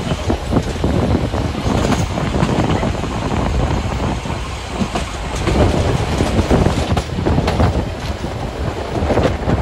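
Train running along the track, with the clicking of wheels over the rail joints.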